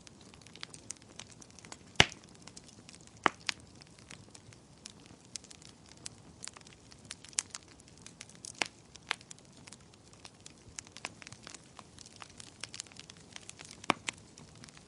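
Wood fire burning in a fireplace, crackling with irregular sharp pops over a soft hiss; the loudest pop comes about two seconds in.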